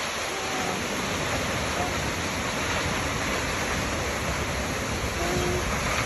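Waterfall: a steady, even rush of falling water, with a few brief faint tones now and then.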